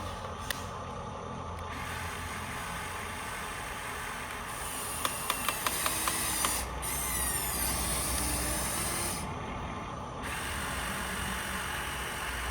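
Small electric motor and plastic gearing of a toy RC construction machine working over a steady hiss, with a quick run of about seven clicks about halfway through.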